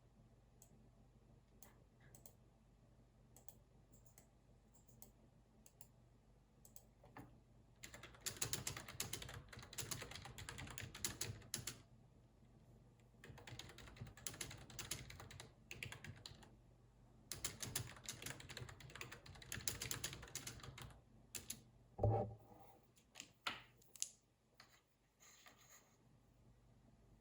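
Typing on a computer keyboard: a few scattered single clicks, then three runs of fast keystrokes a few seconds each. A single thump, the loudest sound, comes after the typing, followed by a few more clicks.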